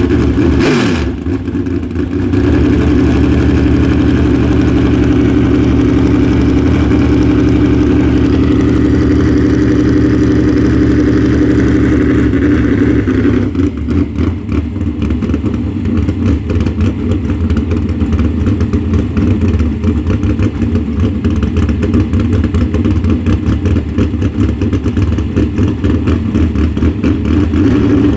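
Car engine running steadily, its note dipping briefly about a second in. From about halfway it turns choppy, with a rapid pulsing.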